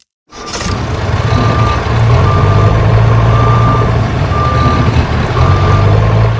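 Truck engine running with a reversing alarm beeping about once a second. The sound starts abruptly and cuts off suddenly at the end.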